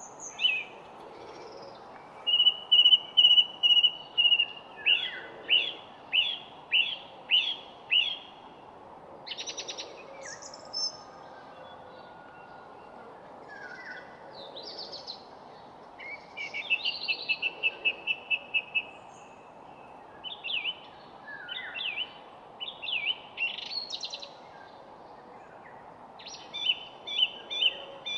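Songbirds singing in repeated phrases: a high steady trill, a run of quick descending notes, and later fast rattling trills, over a steady background hiss.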